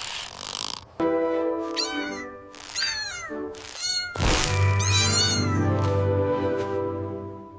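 A cat meowing about four times in short, bending calls over background music with held notes.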